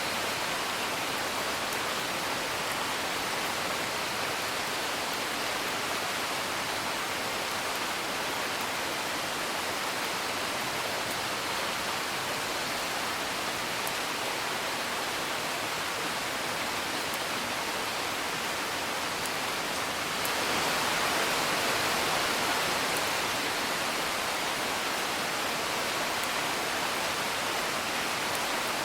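Steady rain heard from indoors, a dense even hiss that swells slightly about two-thirds of the way through, with scattered faint crackles of a wood fire.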